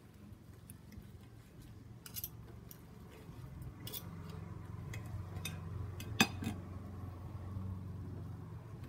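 Metal fork and knife cutting through a pancake stack on a plate, with scraping and a handful of sharp clinks against the plate, the loudest about six seconds in. A low steady hum runs underneath.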